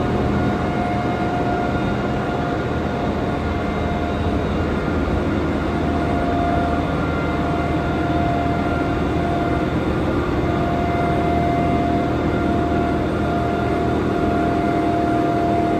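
A train's machinery running close by: a loud, steady rumble with a steady whine on top.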